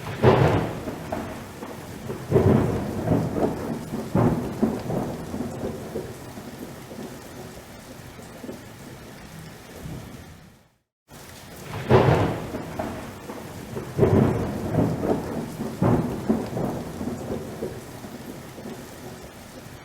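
Thunderstorm: steady heavy rain with three rumbling thunderclaps about two seconds apart, each fading. The sound cuts out briefly a little before halfway, then the same pattern repeats.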